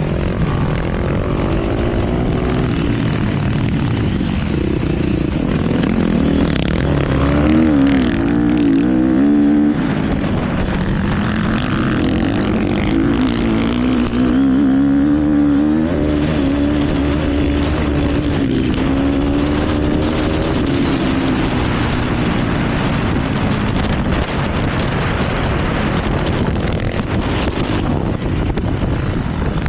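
KTM motocross bike engine running hard, its revs rising and falling continually, with constant wind and track noise.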